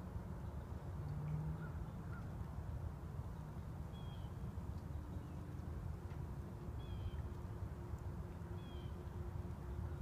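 A few faint short bird calls, each a quick falling note, about four, seven and nine seconds in, over a steady low rumble.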